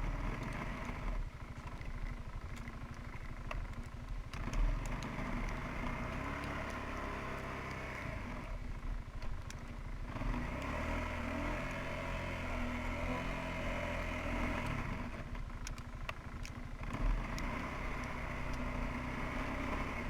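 Suzuki QuadRunner 300 ATV engine running as it is driven through deep snow, the revs rising and falling several times.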